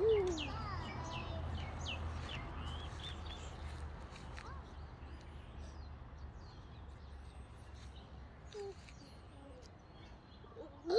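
Birds chirping outdoors: a flurry of short high calls in the first few seconds, then fewer and fainter calls, over a low rumble that fades out. A brief falling vocal sound right at the start.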